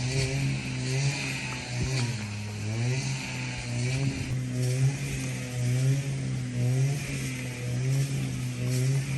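An engine runs steadily, its pitch wavering slightly and dipping briefly about two seconds in before coming back up.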